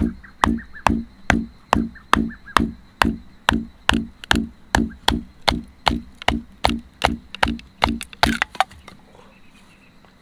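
Firewood being split by hand for a campfire: rapid, evenly spaced strikes on wood, about two a second, ending with a few quicker, louder blows about eight seconds in.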